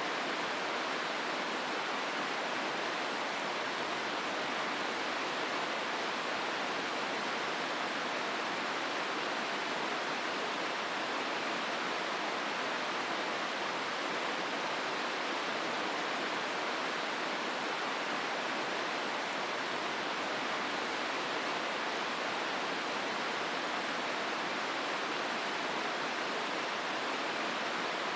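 The Hozu River flowing through its rapids in the gorge: a steady, even rush of water with no breaks or other events.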